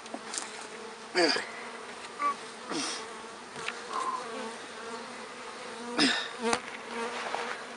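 Agitated honeybees buzzing around an opened hive, a steady droning swarm with several brief louder swells. The bees are upset and defensive because the hive has been opened and comb scraped away.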